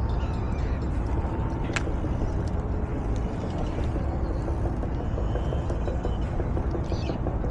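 Steady low rumble and hiss of an outdoor street, with a single sharp click about two seconds in.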